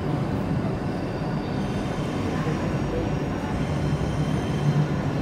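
ICE 4 high-speed electric train rolling slowly into a station platform, a steady rumble with a low hum and faint high whine from its running gear and traction equipment.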